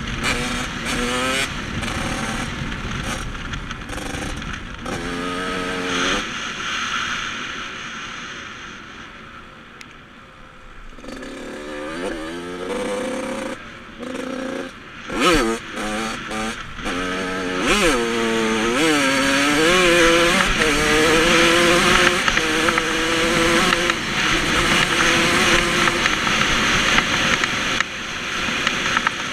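Yamaha YZ85 single-cylinder two-stroke dirt bike engine being ridden, revving up and dropping again and again. It fades about a third of the way through, then comes back and holds a high, wavering rev through the second half.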